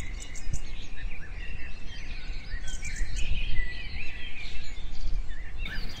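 Birds chirping in many short, quick calls over a steady low rumble of outdoor background noise.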